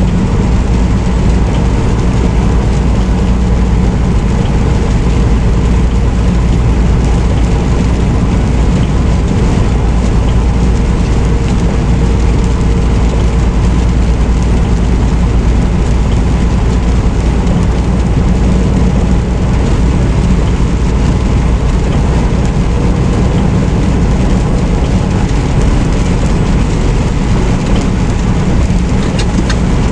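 Semi truck driving at a steady speed, heard from inside the cab: a constant low engine drone with road and tyre noise.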